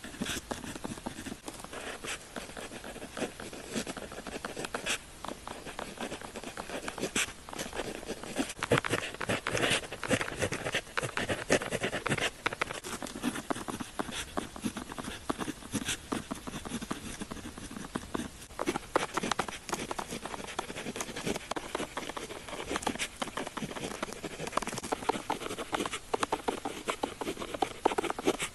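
Pen nib scratching across paper in continuous handwriting, a quick irregular run of short strokes and ticks with no pauses.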